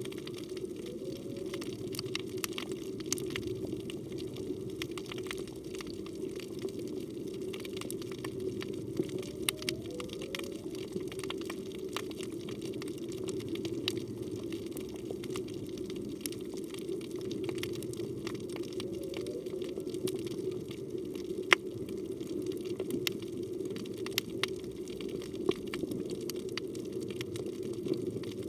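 Underwater ambience: a steady hum with a constant scatter of sharp crackling clicks. A few times, about a second in, near ten seconds and near nineteen seconds, comes a faint short rising call, which the diver takes for humpback whale song.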